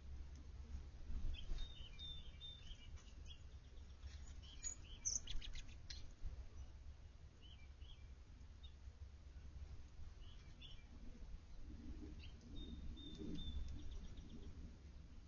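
Faint, scattered chirps and short calls of small backyard birds, with a cluster of quick clicky notes about five seconds in, over a steady low hum.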